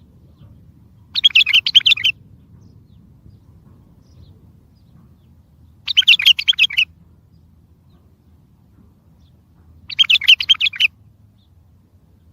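Bulbul song: three short, loud warbled phrases, each about a second long and spaced about four seconds apart.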